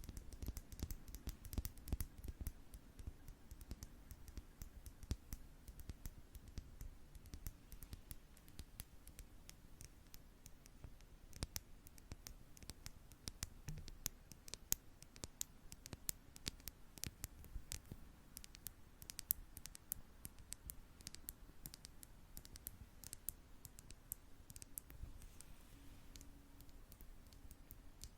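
Close-miked ASMR tapping with makeup brushes and makeup tools: a busy stream of quick, irregular light clicks and taps with soft low thuds, densest in the first few seconds.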